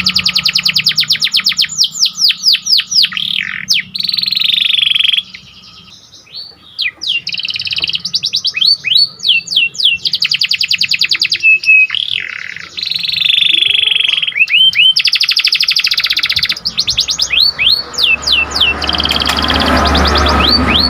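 Domestic canary singing a long, loud song of fast, high trills and rapidly repeated chirps and sweeps. The song breaks off briefly about five seconds in.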